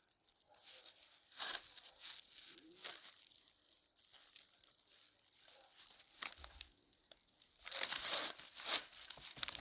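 Plastic sheeting crinkling and rustling as it is handled, in short scattered bursts with a longer, louder stretch near the end.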